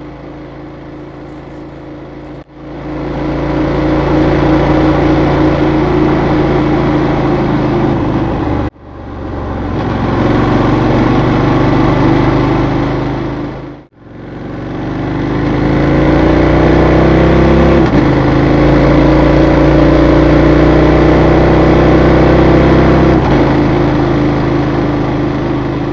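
Adventure motorcycle engine running under way, picked up by a camera mounted on the bike, over a steady rush of noise. It comes in several short clips joined by quick fades, and in the longest one, near the end, the engine note climbs slowly and steps down twice.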